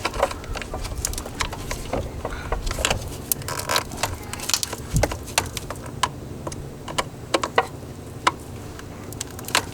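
Irregular metallic clicks, taps and clatter of hand tools and parts being handled in an engine bay, over a low steady hum.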